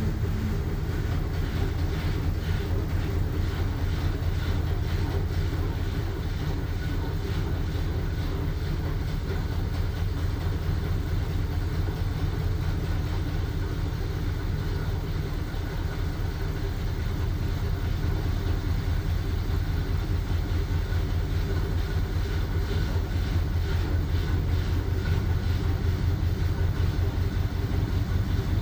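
LG washing machine running with blankets inside: a steady low hum with a fast, even pulsing.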